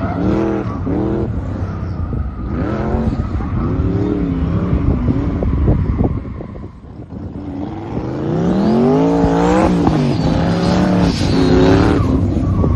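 LS V8 engine of a swapped BMW E36 revving hard on an autocross run, its pitch rising and falling repeatedly. It dips briefly about six seconds in, then climbs in one long rev before dropping off.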